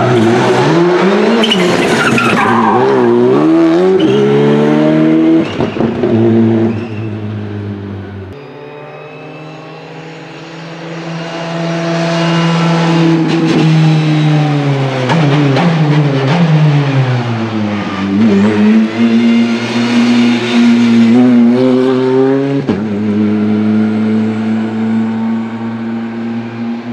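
Rally car engine revving hard through a chicane, its pitch rising and falling with throttle and gear changes and sweeping down sharply under braking. It is loudest at the start and near the end, with a quieter stretch about a third of the way in.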